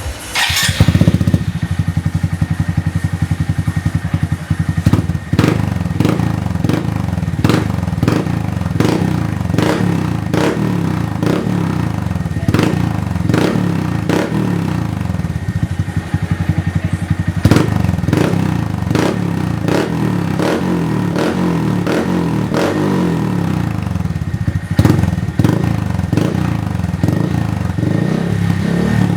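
Honda Monkey 125's single-cylinder four-stroke engine through a Yoshimura RS3 full-system exhaust, starting up about half a second in and then running steadily at idle. Many short sharp pops or clicks are heard over the exhaust note through the middle of the clip.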